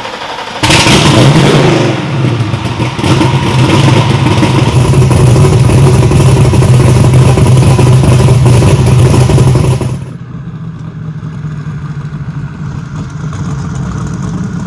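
Twin-turbocharged 7.3-litre Ford Godzilla V8 running loudly and steadily. About ten seconds in, the sound cuts to the engine running much more quietly.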